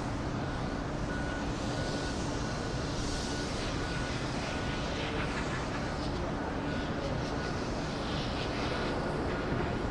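Jet airliner engines running, a steady rumble and rush that holds even throughout.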